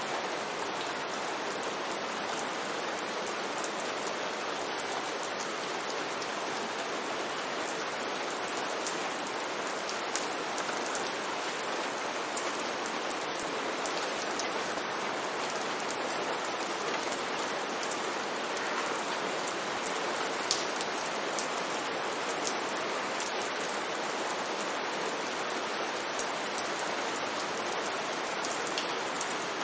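Steady rain falling on a street, an even hiss with scattered sharper drop ticks.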